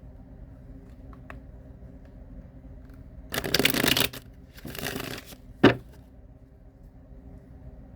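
Tarot cards being shuffled in two short bursts, followed by a single sharp tap.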